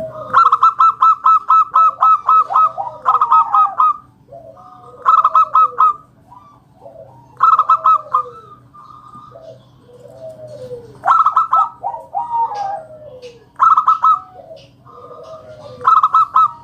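Zebra doves (perkutut) singing: loud bouts of rapid, staccato repeated notes every two to three seconds, with lower, rounded coos between them. A faint, steady low hum runs underneath.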